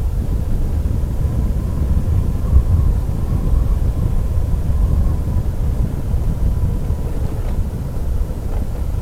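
Motorcycle riding along a winding mountain road: the engine runs under a steady low rumble of wind buffeting the microphone, with a faint steady whine throughout.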